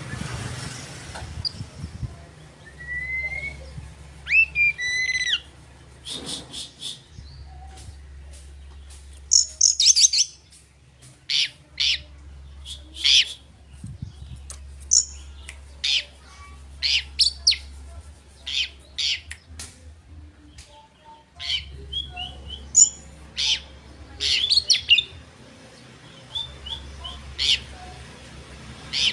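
Oriental magpie-robin (kacer) singing in full voice: a few whistled glides, then clusters of short, sharp chirps and whistles with brief pauses between phrases.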